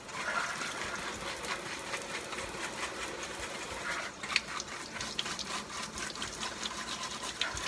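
Kitchen tap running steadily into a sink, with scattered light clicks and knocks of a scrub brush and dishes being worked under it.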